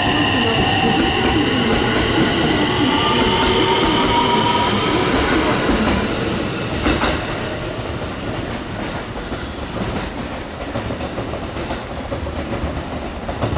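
JR West electric train running through the station without stopping: a loud rush of wheels on rail with several high steady tones over it. The tones fade out about halfway, a single knock comes about seven seconds in, and the sound then eases off.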